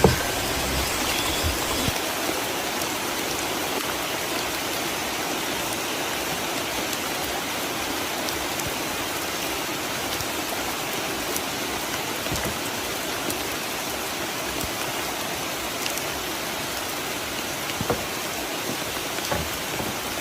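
Steady rain falling, an even hiss throughout, with a few louder single drops near the end.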